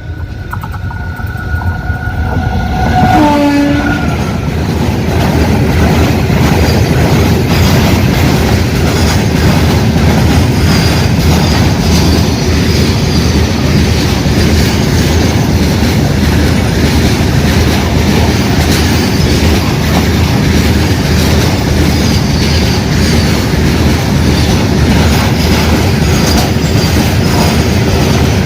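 A train horn sounding, dropping in pitch and ending about three to four seconds in, then a train passing close by: a loud, continuous rumble with the clatter of wheels over the rails and a faint high wheel squeal.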